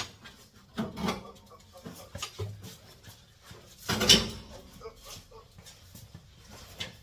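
Scattered knocks and clunks from work on a car's hood as it is unbolted and lifted off, with one loud knock about four seconds in.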